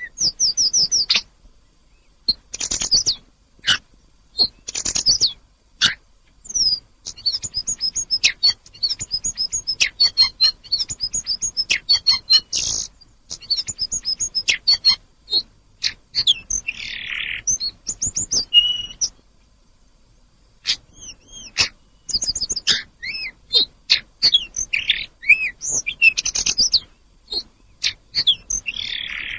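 Tledekan gunung songbird singing: quick high chirps and sweeping notes strung into fast twittering runs, with short pauses between phrases.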